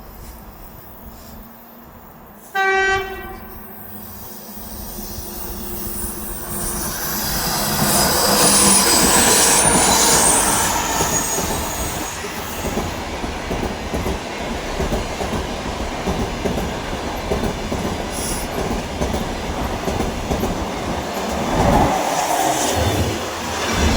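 A train gives one short horn blast, then comes through: the noise of its wheels on the rails builds over several seconds and stays loud as the cars go by.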